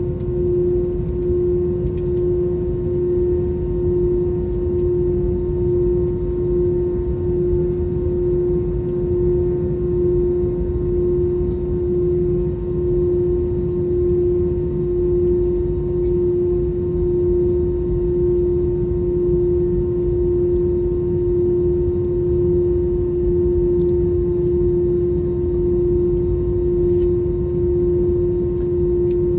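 Cabin noise inside an Airbus A321 during taxi: its CFM56 turbofan engines at idle give a steady drone with a strong constant hum and a low rumble.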